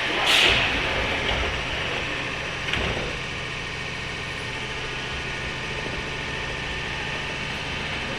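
Inside a 103-series electric train motor car (MoHa 102, MT55 traction motors): a short burst of hiss just after the start and a single knock about three seconds in, then a steady mechanical hum and rumble.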